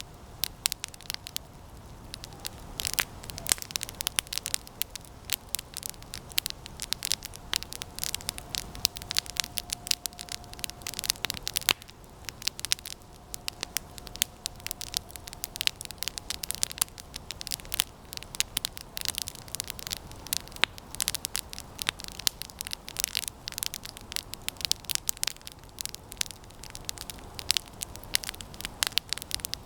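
Campfire of resinous pine branches burning, crackling and popping in dense irregular snaps over a steady hiss. A faint thin whistle sounds twice in the middle.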